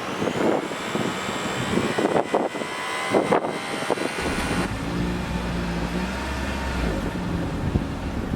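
2023 Toyota Prius hybrid's 2.0-litre inline-four petrol engine starting about four seconds in and then running steadily with a low hum. Before it, a thin high whine and a few clicks.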